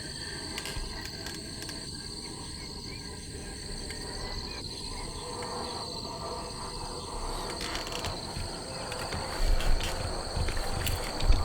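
Steady insect chorus, high trilling in several pitched bands, over a soft even hiss. A few low thumps come in near the end.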